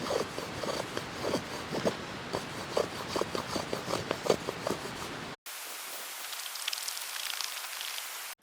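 Tracker knife shaving curls off a split stick for a feather stick: a quick run of short scraping strokes, a few a second. About five seconds in this cuts off and a steady hiss with faint ticking takes over.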